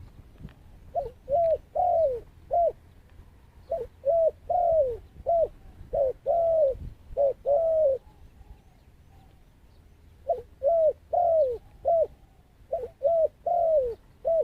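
Dove cooing: five phrases of short, arched coos, each phrase four or five notes long with a longer coo in the middle, separated by short pauses and a longer gap midway.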